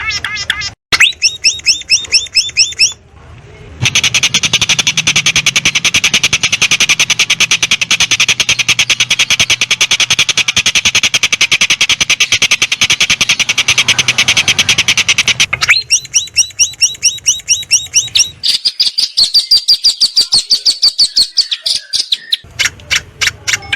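Songs of several small birds spliced one after another, as in a training track for a long-tailed shrike. It runs from rapid repeated chirps to long fast trills, switching abruptly every few seconds.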